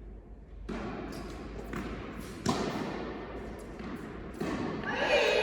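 Tennis ball being struck and bouncing on an indoor court, several sharp knocks a second or two apart that ring in the large hall.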